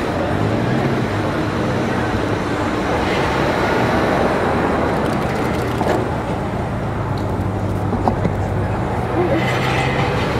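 Large SUV's engine idling close by, a steady low hum under constant street traffic noise.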